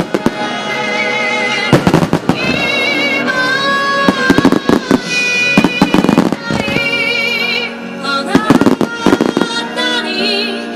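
Fireworks shells bursting in clusters of sharp bangs and crackles about every two seconds, over music with a wavering melody line.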